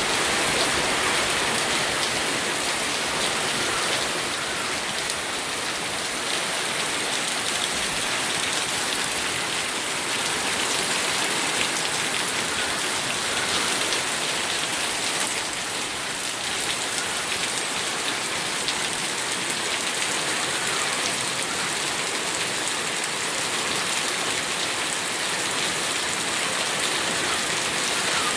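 Steady rain falling on a surface: an even hiss with many fine drop patters.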